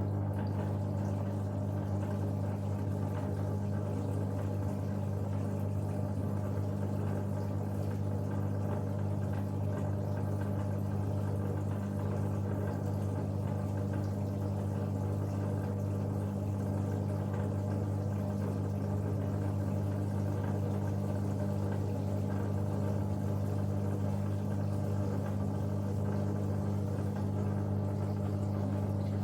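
Bauknecht WA PURE ST 14 FLD washing machine running its steam self-cleaning program, with the steam generator active: a steady, even hum.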